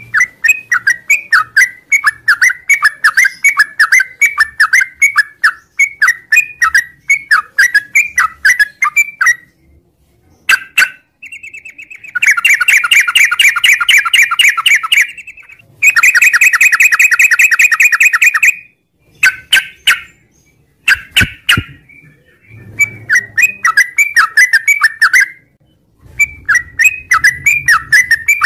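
Yellow-vented bulbul (trucukan) singing a long, fast chattering song of quickly repeated notes. Two long rapid trills come near the middle.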